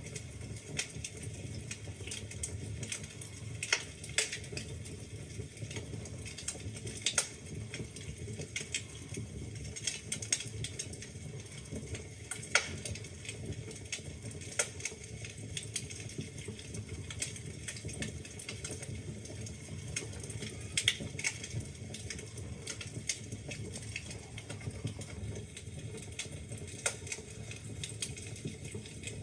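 Wood fire burning in a fireplace, crackling: a steady low rumble and hiss of the flames with irregular sharp pops and snaps from the logs, a few louder ones scattered throughout.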